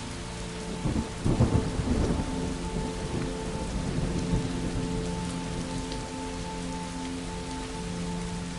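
Steady rain falling, with a thunderclap about a second in that rumbles away over the next few seconds.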